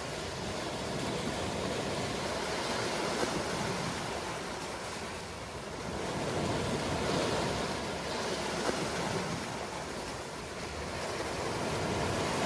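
Ocean waves breaking and washing on a shore, a steady rush of surf that swells and ebbs every few seconds.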